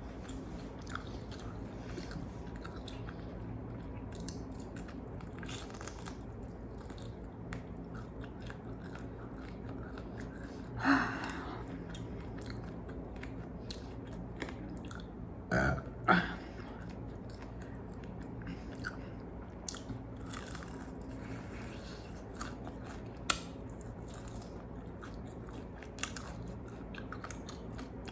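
Chewing and crunching of crispy fried chicken wings: many small crackly bites and chews, with a few louder sudden sounds near the middle.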